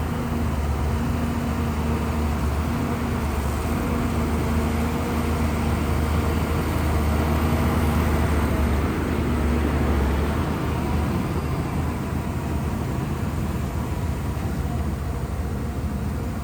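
Shantui bulldozer's diesel engine running steadily under load, a deep drone with broad mechanical noise that eases off somewhat about two-thirds of the way through.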